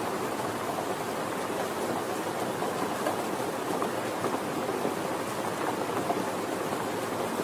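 Steady rain falling, a continuous patter of many drops hitting a surface.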